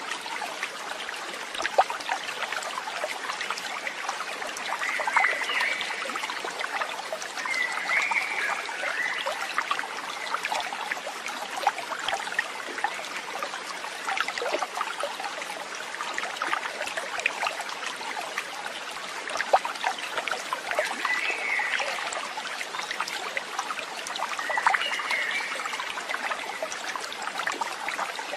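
A brook trickling and babbling steadily, with short chirping calls a handful of times.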